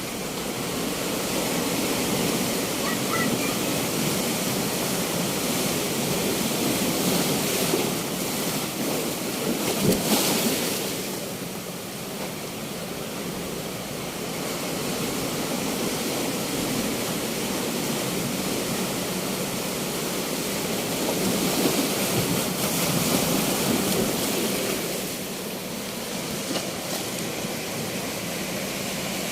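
Ocean surf washing onto a beach: a steady roar of breaking waves that swells and ebbs, loudest about ten seconds in and again a little past twenty seconds.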